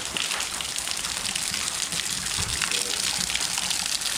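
Waterfall running, a steady rush of falling water.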